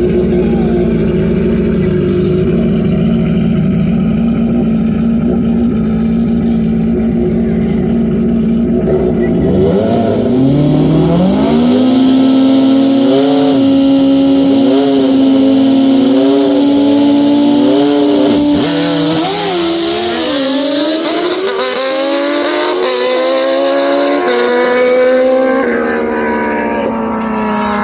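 Drag-racing motorcycle engine: a steady engine note, then revs rising in pitch about ten seconds in and held high, then climbing again in short steps before easing off near the end.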